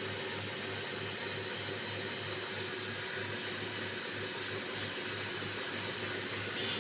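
Common-rail injector test bench running with a Delphi diesel injector firing on it: a steady machine hiss with a low pulsing about four times a second.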